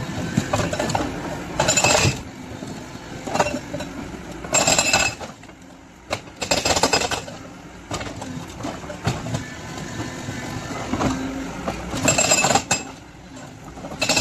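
Hydraulic breaker on a JCB excavator hammering in several short bursts of about half a second each, with the excavator's engine running in between; steady hammering takes over near the end.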